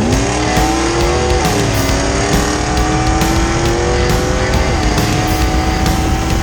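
Rally car engine accelerating hard: its pitch climbs, drops sharply at two upshifts about a second and a half in and near five seconds, then climbs again. Background music plays under it.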